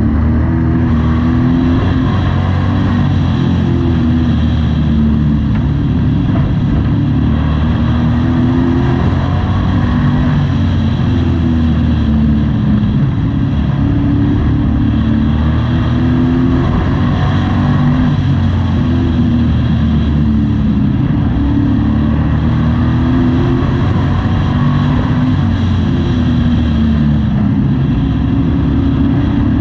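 A Pro Truck race engine heard from inside the cab at racing speed, its pitch climbing and dropping every few seconds as the engine revs up and backs off in turn, lap after lap.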